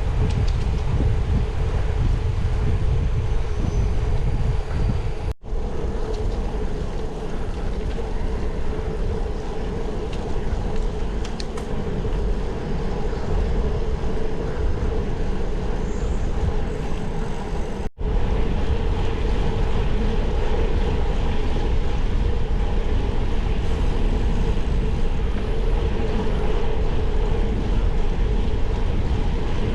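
Wind buffeting the microphone of a camera on a moving bike, with a steady hum underneath. The sound cuts out for an instant twice.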